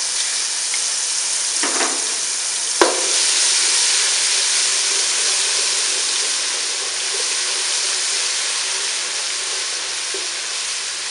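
Garlic paste sizzling and frying in hot oil with whole spices, a steady loud hiss as it is stirred with a spatula. A sharp single knock about three seconds in.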